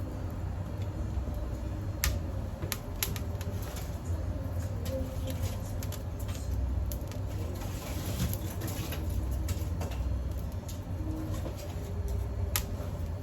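Scattered, irregular sharp crackles and snaps from small dry twigs, over a steady low rumble.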